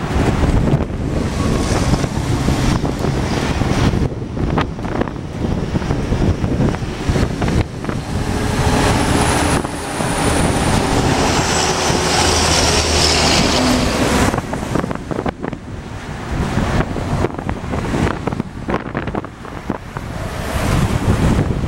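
Boeing 737-800's CFM56 jet engines rumbling, with a high whine that comes in about eight seconds in and fades by about fourteen seconds. Heavy wind buffets the microphone throughout.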